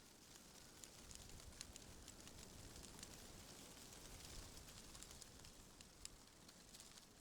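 Faint rustling of tree leaves in the wind, swelling through the middle and easing near the end, with many small light ticks.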